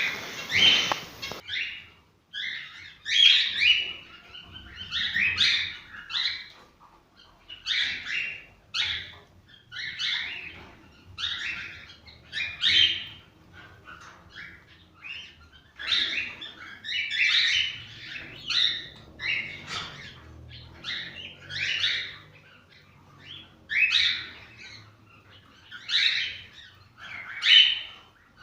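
Cockatiels singing: short chirping, warbling phrases repeated about every one to two seconds.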